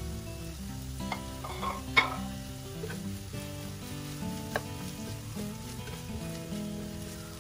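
Chopped chicken patty, onion and capsicum sizzling gently in a non-stick skillet while a spatula stirs through it. The spatula gives a sharp tap against the pan about two seconds in and a lighter one later. Soft background music plays underneath.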